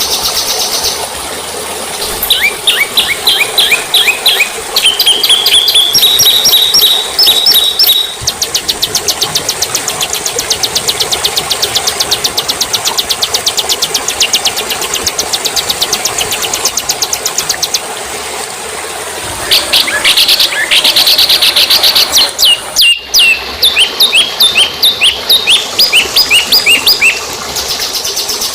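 Songbird song from a bird-song training recording: runs of quick, sharp whistled notes, then a long fast trill of evenly repeated notes, then more rapid note runs. The song breaks off for a moment about 23 seconds in.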